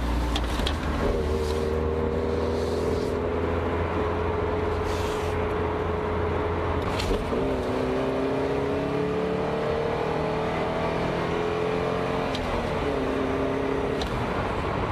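Porsche 924S's 2.5-litre four-cylinder engine, heard from inside the cabin, pulling up through the gears. The engine note climbs steadily, drops at an upshift about seven seconds in, climbs again, and drops once more at a second shift about twelve seconds in, then holds steady.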